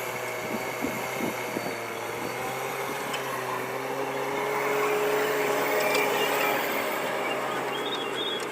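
Vehicle engine running steadily, its hum rising slightly in pitch about halfway through and easing back.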